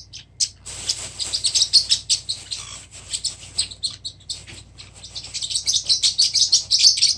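A small group of parrotlets chirping rapidly and continuously in short, high-pitched cheeps, busier in the last couple of seconds.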